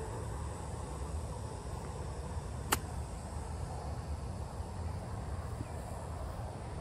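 A golf club strikes a golf ball once on a short pitch shot of about 41 yards: a single sharp click about two and three-quarter seconds in, over a steady low rumble.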